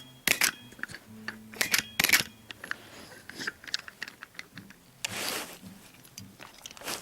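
Small plastic and die-cast toy vehicles being handled and set down: a run of sharp little clicks and knocks, with a longer rustling scrape about five seconds in.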